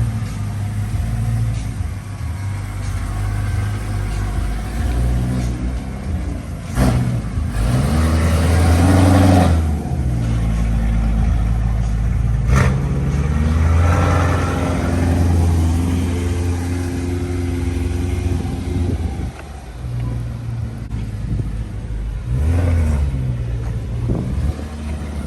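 A BMW E92 M3's 4.0-litre V8 running through a catless X-pipe with no resonators and a Borla ATAK cat-back exhaust, revving and accelerating. The pitch climbs twice, with a short sharp crack about 7 and 12 seconds in, then falls off near the end.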